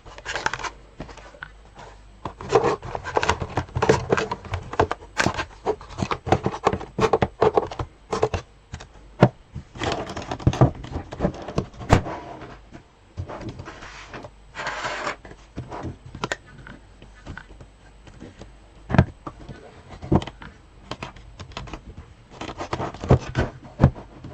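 Small sewing supplies being handled and put away in a sewing box: irregular clicks, taps and light knocks of small objects, with a short scraping rustle about fifteen seconds in.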